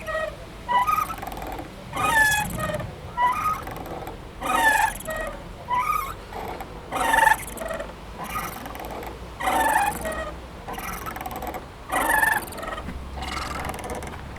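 Playground swing squeaking as it swings back and forth: a short squeak that glides in pitch, repeating about once a second.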